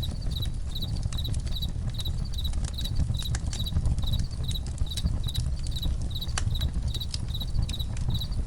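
Campfire crackling, with irregular sharp pops over a low steady rumble, while crickets chirp in a regular rhythm of about two high chirps a second.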